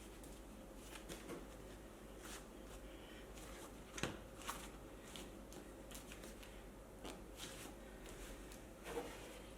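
Scattered light scrapes and clicks of a scooter-size tyre being worked onto its wheel rim by hand, with sharper knocks about four seconds in and again near the end.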